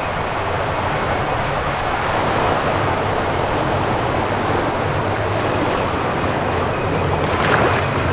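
Steady rush and slosh of water-park river water around a rider floating along, with wind on the microphone, and a brief louder surge near the end.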